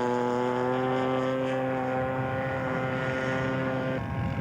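Engine of a radio-controlled scale model airplane running steadily at high power, its pitch creeping up slightly, then cutting off abruptly near the end.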